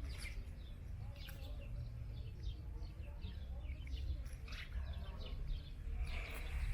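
Small birds chirping repeatedly in quick, short notes, over a steady low rumble.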